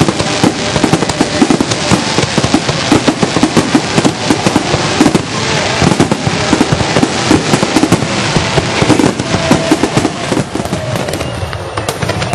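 Fireworks bursting in a dense, rapid barrage of cracks and bangs, many a second, that thins out over the last couple of seconds.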